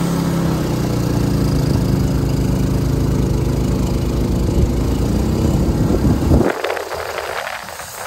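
Kubota tractor's diesel engine running steadily, cutting off suddenly about six seconds in. A few short rustling noises follow.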